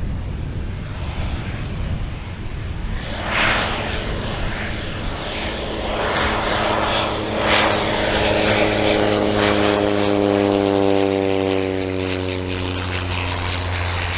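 Light propeller aircraft's piston engine droning as it passes, its pitch slowly falling as it goes by.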